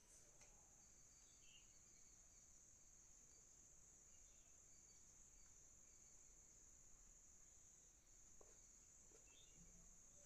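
Near silence with a faint, steady high-pitched hiss or chirr, and a few faint ticks near the end.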